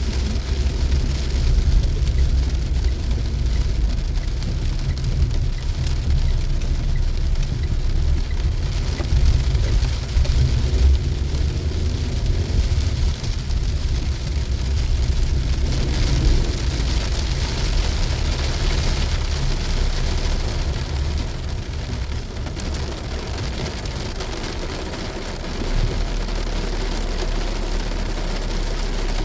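Heavy rain hissing on a moving car, over the steady low rumble of the car driving on the wet road, heard from inside the car.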